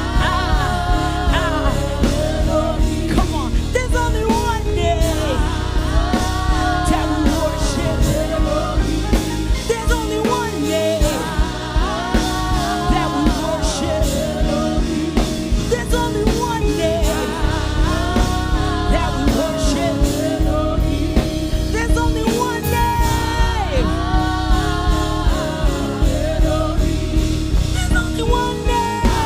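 Gospel worship song: a sung melody with wavering, gliding held notes over a full band with steady bass and regular drum hits.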